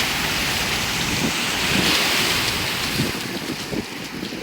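Steady rushing hiss of floodwater, loudest in the first two seconds and fading toward the end.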